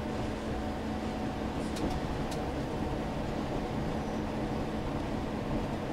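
Cabin noise of a KTR8000 diesel railcar pulling into a station: a steady rumbling drone with a constant low hum, and a couple of faint clicks about two seconds in.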